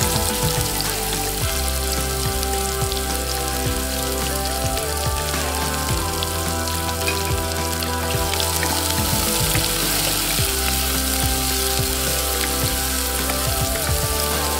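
Chopped shallots and green chillies sizzling as they fry in hot oil in a pot, with a wooden spoon stirring them in the second half. Instrumental background music with held notes plays underneath.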